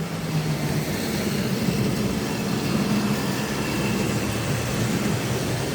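Tri-ang model train running on the layout: a steady whirr from its small electric motor together with wheel noise on the track, getting a little louder over the first second and then holding.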